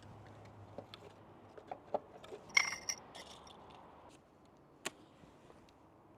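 Cookware and utensils handled for campfire cooking: scattered light clicks and knocks, with a short ringing clink about two and a half seconds in and a sharp click near the end.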